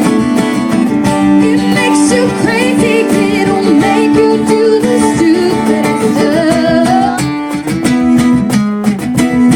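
Live acoustic guitar strumming chords, with a voice singing wavering wordless notes through the middle.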